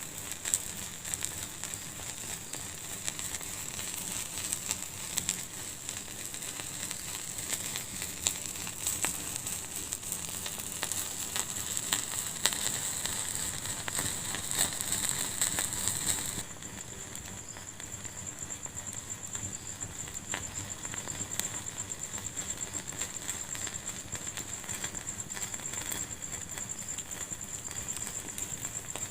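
Wood fire crackling in a fireplace: irregular small pops and snaps over a steady hiss. The hiss drops abruptly a little past halfway.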